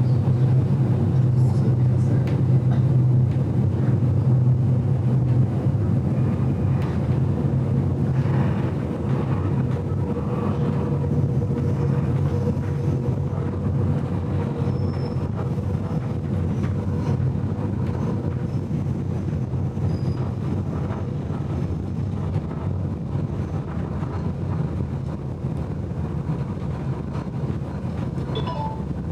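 GoldenPass Belle Époque train running along the track, heard from inside the carriage as a steady low rumble. It eases a little about eight seconds in, and a faint humming tone comes in for a few seconds around the middle.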